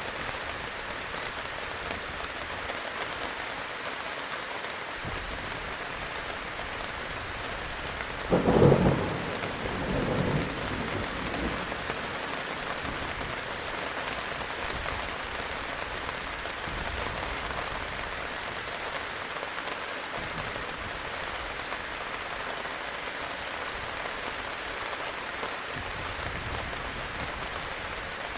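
Steady heavy rain with a thunderclap about eight seconds in, followed by a second, weaker rumble that fades over a couple of seconds; a faint low rumble of distant thunder comes near the end.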